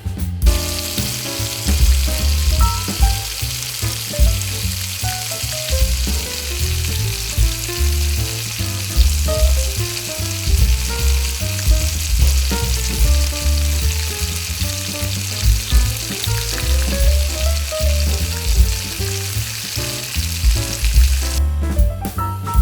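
King oyster mushrooms frying in a pan with butter, a steady sizzle that starts about half a second in and stops shortly before the end. Jazz with a bass line plays underneath.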